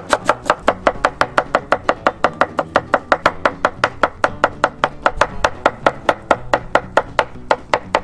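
Knife rapidly slicing a cucumber on a cutting board, about six even strokes a second.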